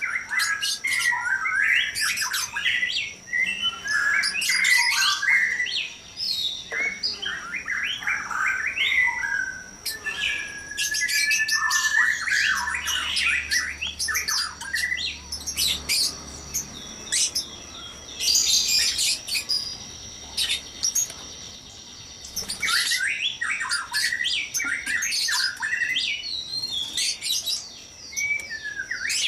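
White-rumped shamas chattering noisily: a dense, overlapping run of chirps, squawks and whistled phrases with a brief lull about two-thirds of the way through. A steady high-pitched whine runs underneath.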